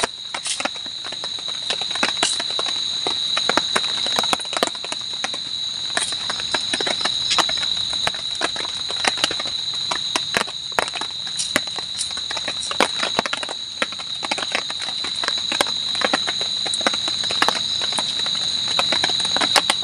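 Steady high-pitched chirring of night insects, with frequent irregular clicks and taps scattered over it.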